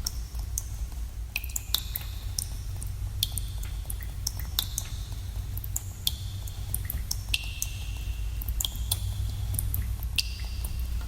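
Water drops falling irregularly in a cave, a couple of times a second, each a sharp plink with a short ringing echo, over a steady low rumble.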